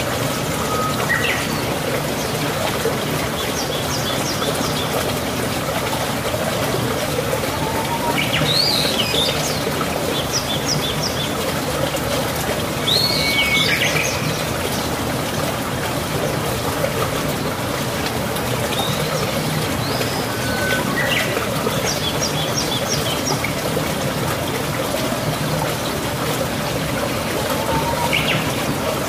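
Birds chirping and calling every few seconds, some calls quick high trills and others short rising-and-falling whistles, over a steady rushing background noise like running water.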